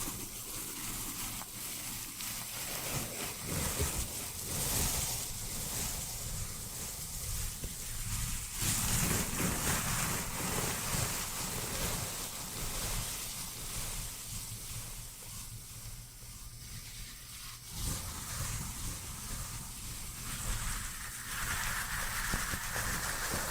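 Rushing wind-and-water nature ambience, an even noise with no tune, swelling and easing every few seconds.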